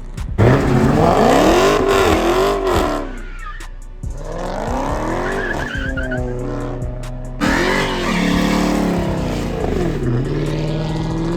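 Performance car engine revved hard three times, the pitch climbing and falling with each rev, with a hiss of tire noise under it.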